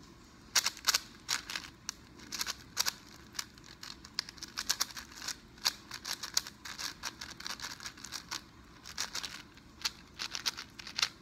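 Plastic speedcube being handled and turned: pieces clicking and clacking irregularly as it is worked open to take a drop of lube.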